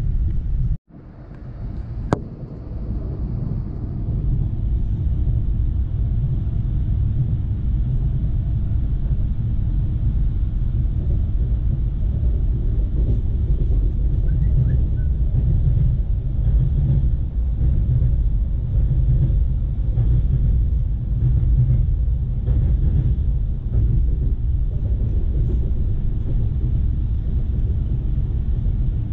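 Steady low rumble of an ES2G Lastochka electric multiple unit running, heard inside the passenger car. Just under a second in the sound drops out for an instant, a sharp click follows, and the rumble builds back up over the next couple of seconds.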